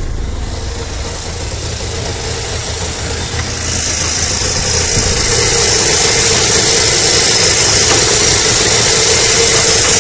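Syrena 105L's S-31 three-cylinder two-stroke engine idling steadily, heard first from inside the cabin and then close up in the open engine bay. From about four seconds in, a loud, steady hiss joins it and the sound grows louder.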